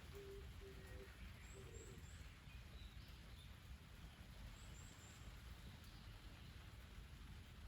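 A bird calling with a few short, low hooting notes in the first two seconds, with faint high chirps now and then over a low background rumble; otherwise near silence.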